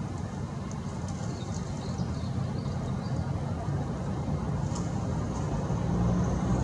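A steady low rumble, such as distant traffic, with short high bird chirps scattered through it.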